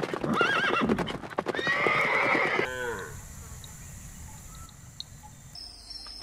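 Horse neighing: a wavering, pitched call over the first three seconds that ends in a falling glide, followed by quieter background sound.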